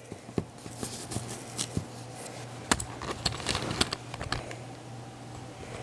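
Firework canister shells being handled by hand: scattered light clicks, taps and rustles, over a low steady hum.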